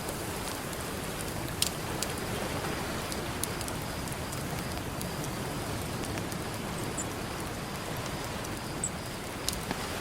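Campfire crackling, with sharp pops now and then, the loudest about a second and a half in, over a steady hiss of ocean surf.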